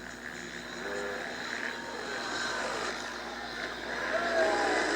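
Several motocross bike engines revving up and down as the bikes race around the track, their pitch rising and falling, growing louder near the end.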